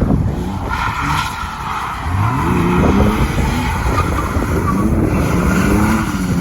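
Car engine revving hard during a drift, rising sharply about two seconds in and then rising and falling with the throttle, over the hiss of tyres skidding on a wet road.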